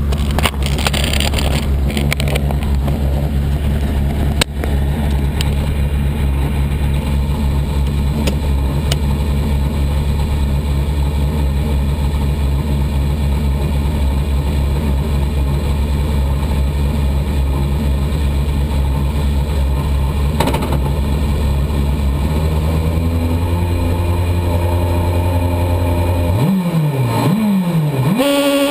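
Skoda Fabia S2000 rally car's 2.0-litre four-cylinder engine, heard from inside the cockpit, idling steadily at the stage start. After about twenty seconds the revs are raised and held. Near the end come a couple of quick blips, and the engine is held at higher revs, ready to launch.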